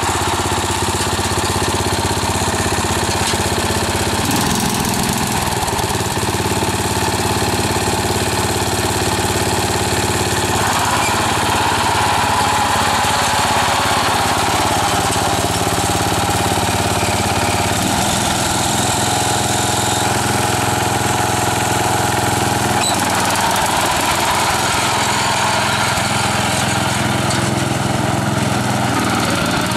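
Restored garden tractor's 11-horsepower engine running continuously on a freshly rebuilt carburetor. Its speed shifts several times: about 4 seconds in, around 10 seconds, again near 18 seconds and about 23 seconds in.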